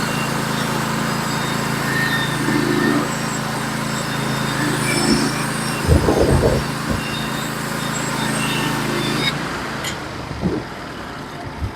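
Norwood HD36v2 portable bandsaw mill's engine running steadily while the blade cuts through a large log, with a few brief knocks around the middle. The running sound cuts off abruptly about nine seconds in.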